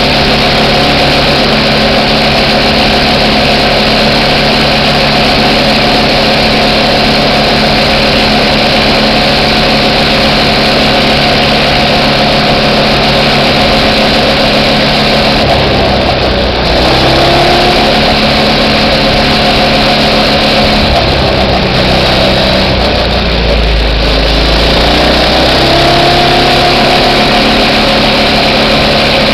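Minibike's small engine running loudly under a heavy rushing noise. Its speed falls off about halfway through and picks back up, then drops and climbs again near the end.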